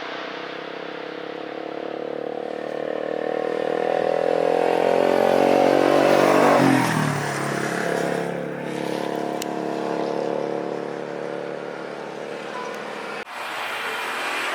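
A motor vehicle's engine passing close by. It grows louder, then drops in pitch as it goes past about seven seconds in, and fades away.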